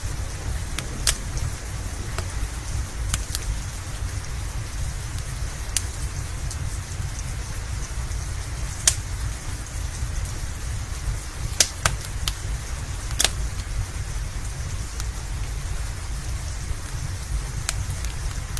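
Steady rain with a deep, constant rumble underneath, and a crackling wood fire adding sharp, irregular pops every second or so.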